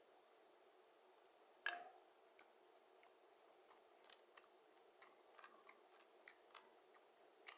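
Near silence with faint, scattered mouth clicks of quiet eating and one sharper knock just under two seconds in.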